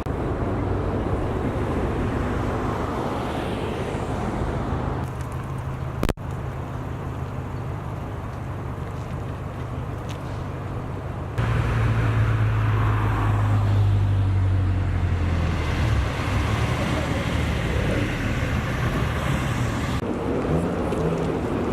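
Car engines running steadily in a busy parking area, with a low, even hum under general traffic noise. The sound changes abruptly about six seconds in and again about eleven seconds in, when a louder, deeper engine hum comes in.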